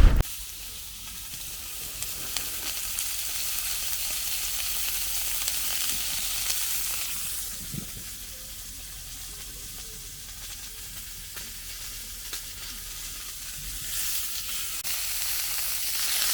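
Food sizzling as it fries in a pan, a steady hiss that eases off about halfway through and picks up again near the end.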